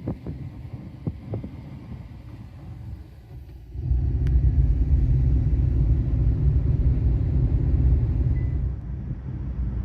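Low rumble of a car on the move, with a few faint knocks at first; about four seconds in the rumble grows much louder and stays steady.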